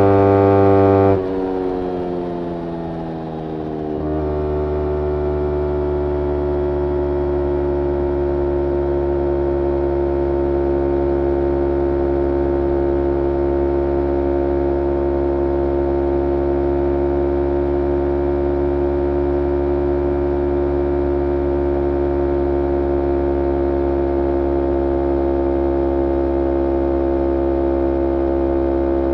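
Kawasaki Ninja 250R parallel-twin engine through a full Graves racing exhaust, held at steady high revs, then let go about a second in. The revs fall over the next few seconds and settle into a steady idle.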